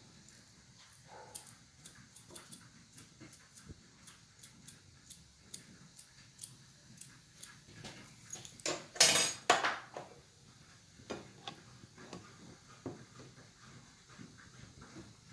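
Light clinks and knocks of kitchen utensils against dishes and pans, irregular, about one or two a second, with a louder noisy burst lasting about a second near the middle.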